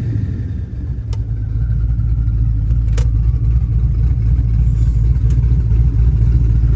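Twin-turbo LS3 V8 idling steadily with a deep, low sound. Two sharp clicks come about one second and three seconds in.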